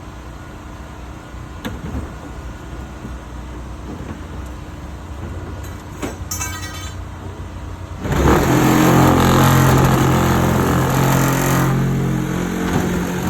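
An engine running low and steady, then revving up hard about eight seconds in and holding high for a few seconds before easing back. A short high squeal comes just before the rev.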